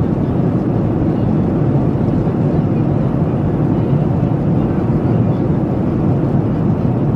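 Steady cabin noise inside a Boeing 737-700 in flight, heard from a window seat: an even, unbroken rumble of its CFM56-7B jet engines and the air rushing past the fuselage.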